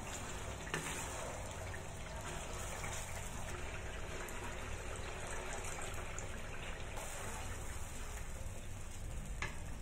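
Sambal chilli paste sizzling in hot oil in a stainless steel wok while it is stirred with a wooden spatula, with a little tamarind water poured in midway. The spatula knocks against the wok a couple of times.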